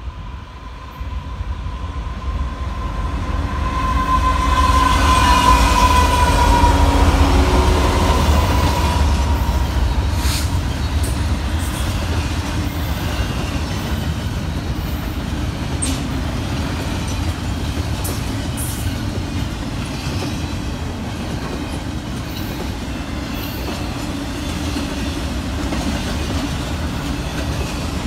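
Diesel freight train passing: the locomotive approaches with its horn held for the first several seconds and a deep engine rumble that swells as it goes by. Then double-stack intermodal well cars roll past with a steady rumble and scattered clicks of wheels over rail joints.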